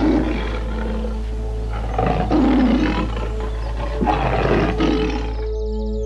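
Deep animal roars, one about every two seconds, over a steady background music bed.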